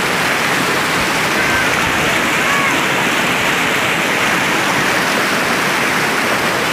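Fast-flowing spring water rushing steadily over rocks, a loud continuous rush.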